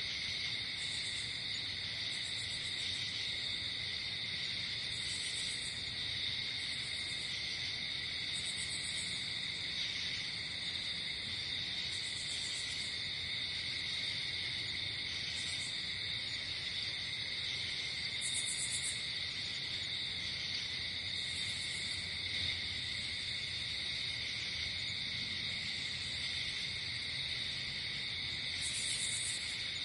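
Night insect chorus: a steady, shrill trilling from crickets, with short, very high pulsed chirps from other insects coming in every few seconds.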